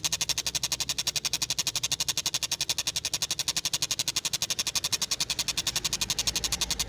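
Tengkek buto kingfisher calling in a rapid, even chatter of about a dozen sharp notes a second, kept up without a break.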